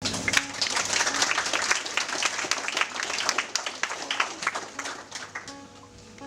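Audience applauding, the clapping dying away over the last second or so. Short low electronic tones sound faintly underneath.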